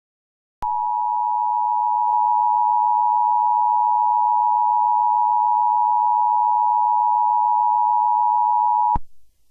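Emergency Alert System attention signal: a loud, steady two-tone alarm that starts about half a second in and cuts off abruptly after about eight seconds, the warning that an emergency broadcast message follows.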